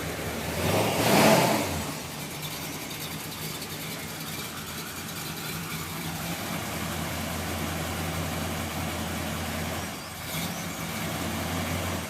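1963 Corvette C2 split-window's 450 hp V8 idling steadily, with one short rev of the throttle about a second in.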